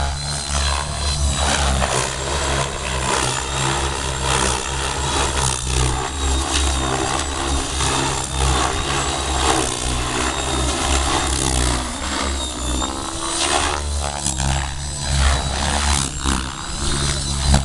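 Electric radio-controlled helicopter, a KDS Innova 700 V2 with a Scorpion brushless motor, in flight. Its rotor and drivetrain make a steady low drone under a thin high-pitched whine that wavers up and down as the head speed changes.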